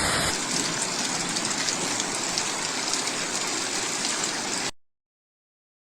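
Heavy rain pouring down: a steady hiss packed with small drop impacts. It stops abruptly near the end.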